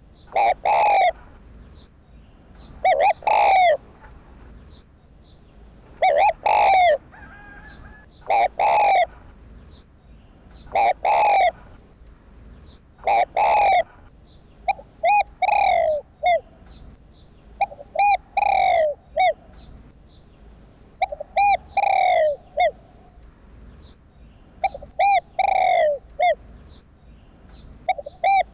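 Spotted dove cooing: its repeated territorial coo, one phrase every two to three seconds, each a few short notes ending in a longer one.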